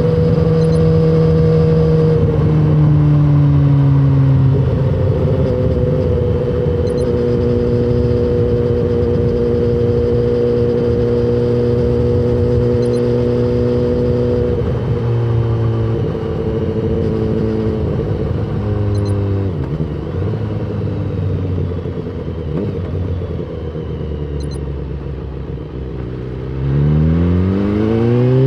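BMW S1000RR inline-four sport bike engine running at steady revs, its pitch dropping in steps a few times as it slows. Near the end it revs up sharply under acceleration, the pitch climbing steeply.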